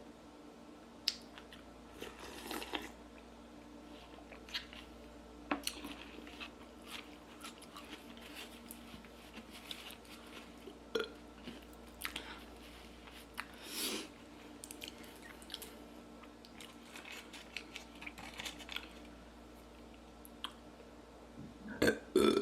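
Close-miked eating sounds: a person chewing and biting food, with scattered wet clicks and small crunches. A loud burp begins right at the end.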